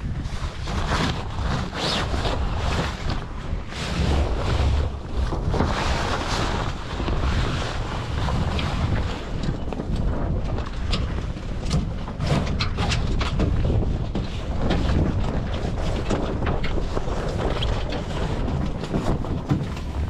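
Wind buffeting the microphone with a steady low rumble, broken by many short sharp clicks and knocks.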